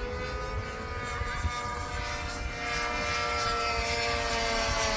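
Small glow-fuel (nitro) engine of a radio-controlled model airplane running with its propeller, a steady high drone whose pitch drifts slowly and which grows a little louder in the second half.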